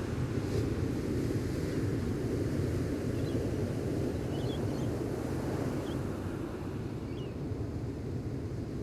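Gentle ocean waves washing onto a beach: a steady low rush of surf, with faint short bird chirps several times.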